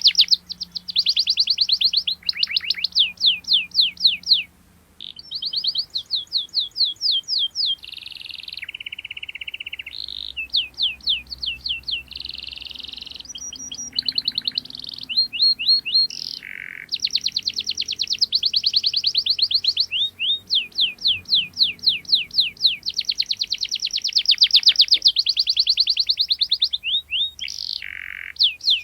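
Canary singing a long song of fast trills: rapid runs of repeated sweeping chirps that change speed and pitch from phrase to phrase, with a short buzzy held note around nine seconds in and a brief pause about four and a half seconds in.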